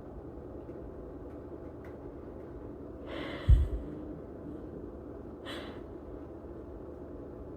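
Two short breathy huffs from a pet eating stolen raw chicken, about three and a half and five and a half seconds in. A dull thump comes with the first huff and is the loudest sound. A faint steady hum runs underneath.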